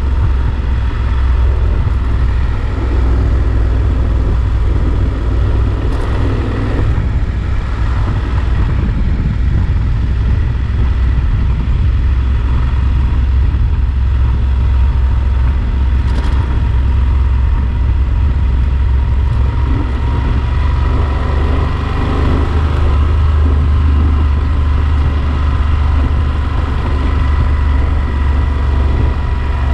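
Yamaha Super Ténéré XT1200Z's parallel-twin engine running steadily while riding, under heavy wind rumble on the camera's microphone.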